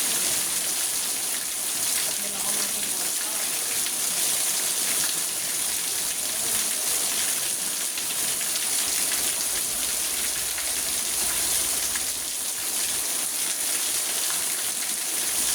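Steady rain drumming on a car's roof and windscreen, heard from inside the cabin: a dense, even hiss of many small drop impacts.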